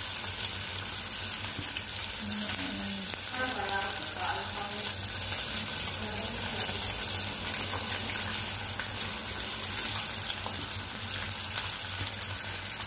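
Chicken wings frying in hot oil, now golden brown: a steady sizzle with scattered small crackles and pops.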